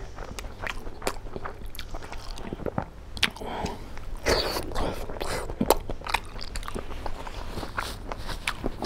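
Close-up eating sounds of a man chewing a handful of rice and pork curry with his mouth, with many short wet clicks scattered through.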